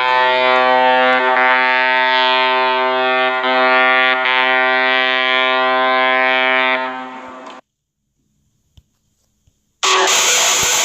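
A loud, horn-like blare held at one pitch with many overtones for about seven and a half seconds, then fading out. About two seconds later a harsh, hissing noise starts abruptly.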